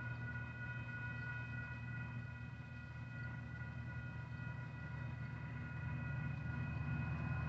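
Distant Union Pacific SD59MX diesel locomotives approaching: a low engine rumble that slowly grows louder, under a steady high whine of several tones.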